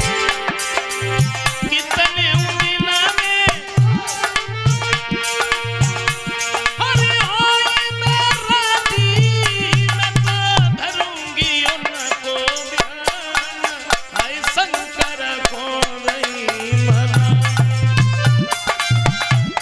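Instrumental interlude of a Hindi devotional folk song: a melody with gliding notes over sustained tones, carried by a hand-drum beat. The drum drops out for several seconds in the middle, then comes back.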